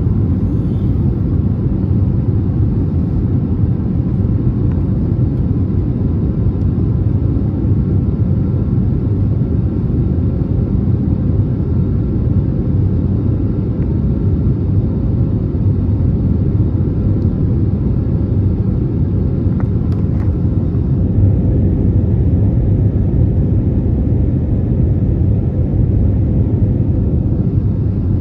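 Airbus A320neo's engines heard from inside the passenger cabin: a loud, steady rumble with a faint steady whine above it.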